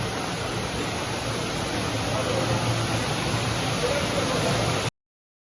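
Steady rushing noise of storm water in a violent thunderstorm, with a faint voice in it. It cuts off suddenly near the end.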